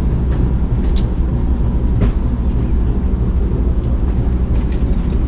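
Steady low rumble inside a sleeper train carriage, with a couple of short sharp clicks about one and two seconds in.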